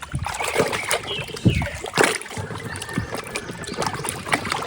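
Water splashing and trickling as a toy truck is washed by hand in a tub of water, with short knocks and splashes throughout.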